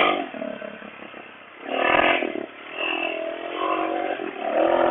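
Suzuki DR650's single-cylinder four-stroke engine being ridden, the revs rising and falling in surges that are loudest about two seconds in and again near the end.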